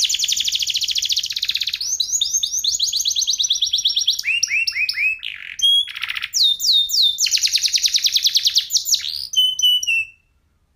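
Domestic canary singing a long song of fast trills and rolls with rapid downward-sweeping notes, pausing briefly a few times, then stopping suddenly near the end.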